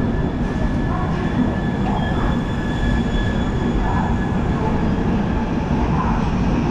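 Passenger train pulling out of a station, heard from an open coach doorway: a steady, dense rumble of wheels on rail, with a thin, steady high-pitched whine on top.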